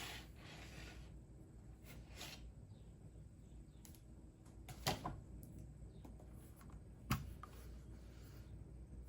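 Sparse computer keyboard keystrokes, a few scattered clicks with two sharper, louder taps, over a faint low room hum.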